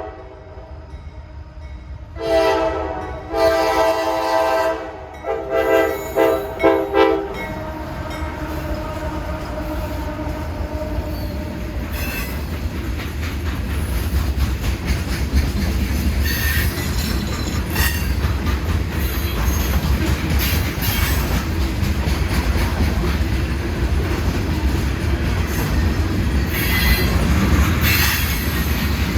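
A diesel freight locomotive's multi-chime air horn sounds several blasts, the last ones short. A freight train then rolls past with a steady low rumble of wheels on rail and occasional high wheel squeal.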